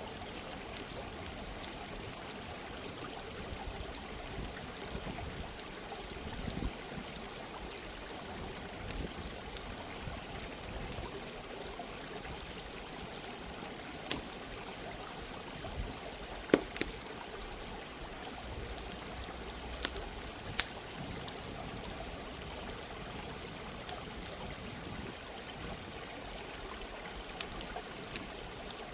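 Running water flowing with a steady rush, over a crackling campfire that gives scattered sharp pops, the loudest about halfway through and again a few seconds later.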